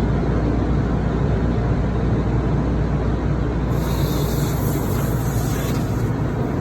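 Steady low rumble of a truck's running engine heard from inside the cab, with a hiss lasting about two seconds near the middle.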